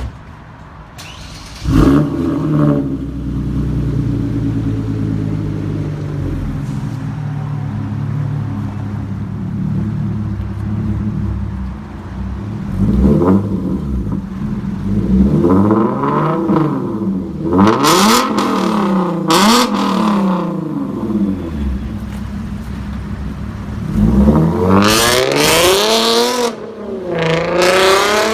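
Hyundai Genesis Coupe's 3.8-litre V6 through a Nameless muffler-delete axle-back exhaust. It starts up about two seconds in and idles steadily, then is revved in a series of short blips, with bigger, longer revs near the end.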